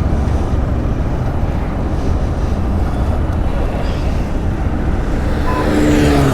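Steady rumble of a motorcycle being ridden, engine and wind buffeting the helmet-mounted microphone. A short pitched sound cuts in near the end.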